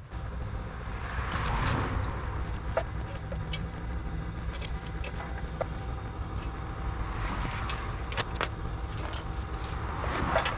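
Tractor diesel engine running steadily, with scattered light metallic clicks and taps.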